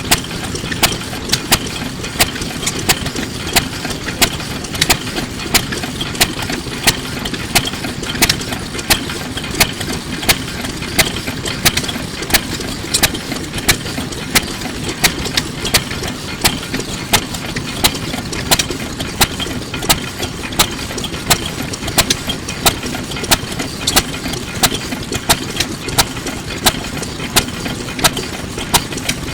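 Kubota Type F 2.5 hp single-cylinder stationary farm engine running at low speed. It makes a sharp beat about twice a second over a steady low chug.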